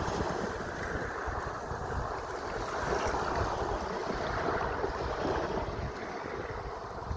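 Sea waves washing continuously, with wind buffeting the microphone in an uneven low rumble.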